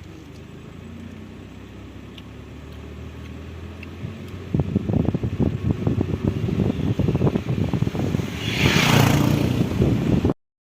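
Low steady rumble of a moving vehicle. About halfway through, wind starts buffeting the microphone in rapid irregular thumps, with a louder rushing gust near the end, and then the sound cuts off abruptly.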